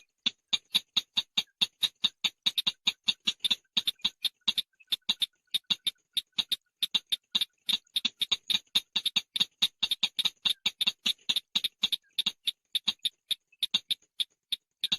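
Call of the bird known in Vietnamese as chàng nghịch: a fast string of short, sharp, high notes, about five a second, with little pause.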